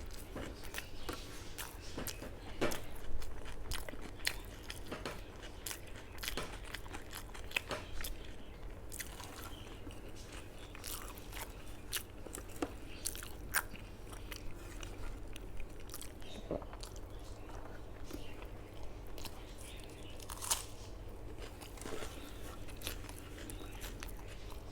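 A person eating a meal up close: steady chewing with frequent short, crisp crunches and wet mouth clicks, over a low steady hum.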